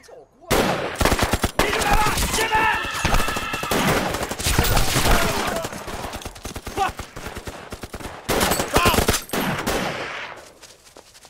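Battle gunfire in a film soundtrack: a dense fusillade of rifle and machine-gun fire. It starts suddenly about half a second in and dies away near the end.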